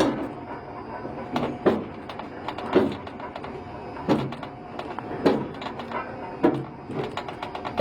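Railroad turntable in motion: repeated metallic clanks about once a second over a steady mechanical rumble.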